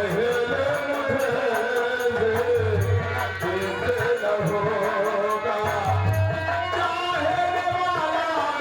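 Live folk music: a singer holding long, wavering notes over a rhythmic drum accompaniment.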